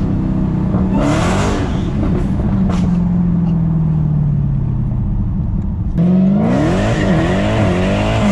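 A 700-plus-horsepower car's engine heard from inside the cabin. The revs rise briefly, then the pitch falls slowly as the car coasts. About six seconds in it gets suddenly louder under hard acceleration, the revs climbing, dipping briefly, and climbing again.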